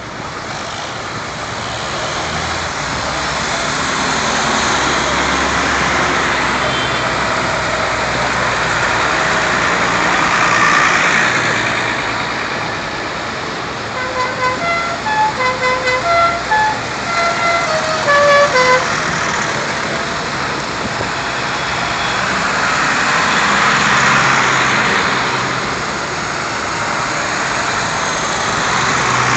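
A procession of vintage tractors passing with their engines running, growing louder as each goes by. About halfway through, a musical horn plays a short tune of quick notes that step up and down in pitch.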